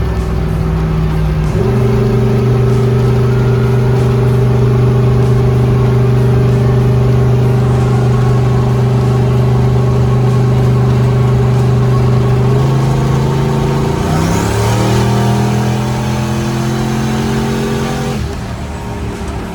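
Twin-turbo LS V8 of a Chevy S10 street truck cruising at freeway speed, a steady drone. The drone drops in pitch about two-thirds of the way in, rises again briefly, then drops once more near the end as the engine speed changes.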